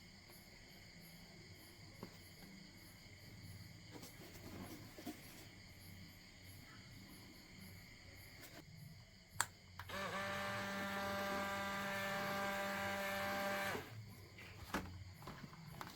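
A click, then a small electric motor runs with a steady pitched hum for about four seconds and cuts off abruptly, followed by a few small clicks.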